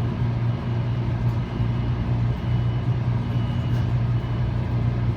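Steady low hum of a MARC commuter train standing at the platform with its engine and power running, heard from inside a passenger coach.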